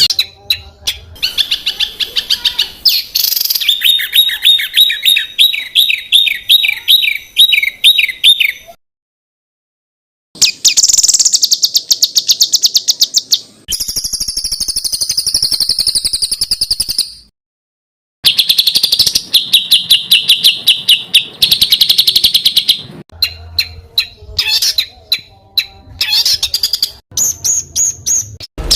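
Small songbirds' recorded calls in fast strings of sharp, repeated high notes, the rapid-fire 'tembakan' phrases used to train competition songbirds. Edited clips follow one another, with a stretch of high trilling in the middle and two abrupt cuts to silence.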